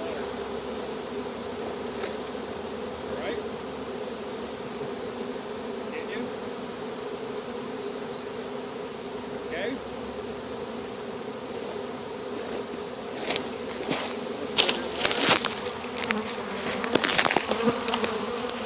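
A honeybee swarm buzzing as a steady, dense hum. Over the last five seconds or so a run of knocks and rattles comes in over the buzz as the bees are shaken out of the vacuum container into a nuc box.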